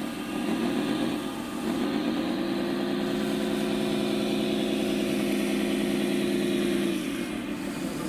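Simulated truck engine sound from a radio-controlled scale truck's sound module: the engine note rises briefly about half a second in, falls back, then climbs again about two seconds in and holds steady before dropping off near the end.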